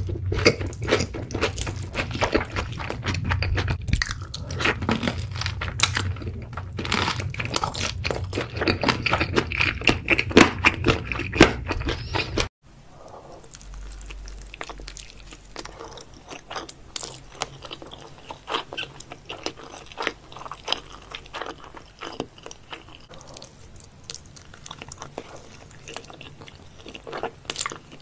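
Close-miked eating sounds: loud crunching and chewing for about the first twelve seconds, then an abrupt cut to quieter chewing of salmon sushi rolls.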